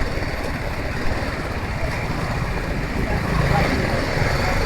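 Motorcycle on the move: a steady rush of wind and road noise over the running engine, with no changes in pace.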